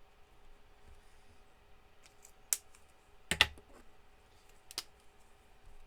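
Three sharp clicks of craft supplies handled on a desk while colouring in, the loudest a short clatter about three and a half seconds in, over a faint steady hum.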